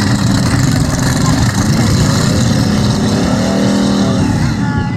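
Stunt truck's engine running, with a rev that rises and falls in pitch about three to four seconds in.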